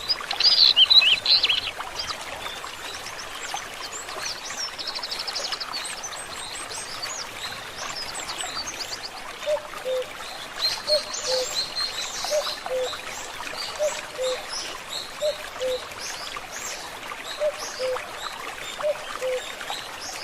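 Forest stream running and trickling steadily, with small birds chirping and trilling over it; the loudest bird calls come in a burst right at the start. From about halfway, a short low note repeats roughly once a second.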